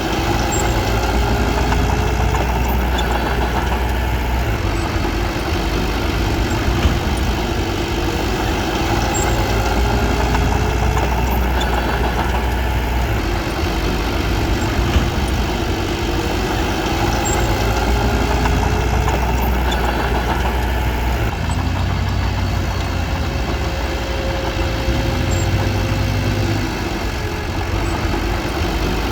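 Diesel engine of a small crawler bulldozer running steadily while working, its note rising and falling a little every few seconds.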